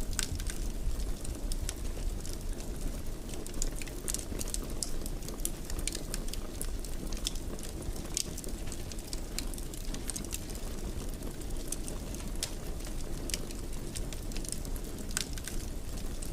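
Fire in a fireplace crackling: a steady low rumble of flames with frequent irregular sharp pops and crackles.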